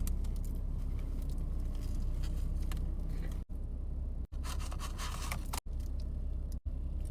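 Close-up eating sounds: a burger's paper wrapper rustling and crinkling while it is chewed, over a steady low hum, broken by a few sudden brief dropouts.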